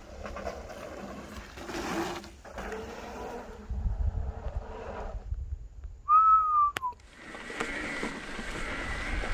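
A single clear whistled note about six seconds in, held for under a second and dropping at its end, over low wind rumble on the microphone. A sharp click follows, then a steady hiss.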